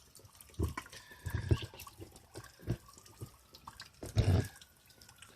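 Rainwater dripping and splashing in irregular drops, with one heavier splash about four seconds in.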